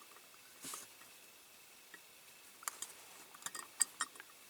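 Small sharp clicks and taps of tiny diecast metal parts being handled as the tractor's control levers are pushed into place, bunched together from about three seconds in, with a short soft rustle under a second in.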